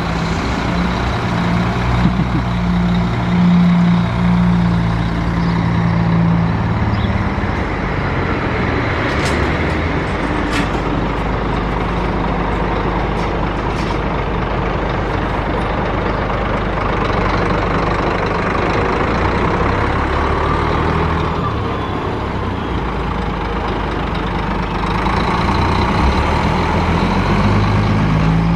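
Scania K400 double-decker coach's diesel engine running, its note shifting as it works, with a few short sharp sounds about nine to eleven seconds in. It gets louder near the end.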